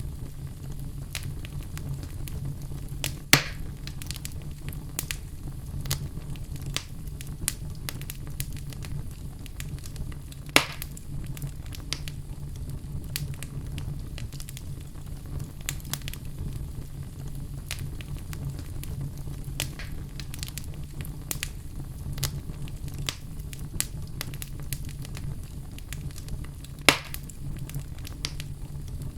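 Wood fire burning in a fireplace: a steady low rumble of the flames with constant small crackles, and three sharp loud pops about three, ten and twenty-seven seconds in.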